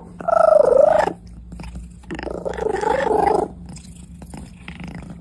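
A pet's voice: two drawn-out calls with wavering, bending pitch, the first about a second long and the second a little longer, over a faint steady hum.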